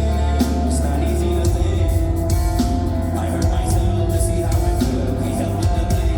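Live band playing rock music without vocals: a heavy bass line and held guitar notes under regular drum and cymbal hits.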